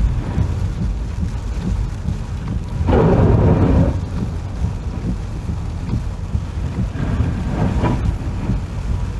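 Typhoon wind and rain: a heavy, continuous low rumble with a louder surge about three seconds in and another, smaller one near eight seconds.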